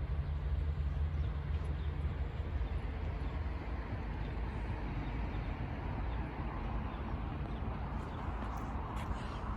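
Low rumble of a diesel train engine that fades over the first few seconds, leaving a steady wash of background noise.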